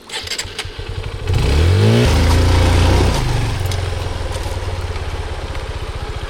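Honda XR150L's single-cylinder four-stroke engine sputtering unevenly, then revving up sharply about a second in and holding loud for a couple of seconds before easing back to steady running.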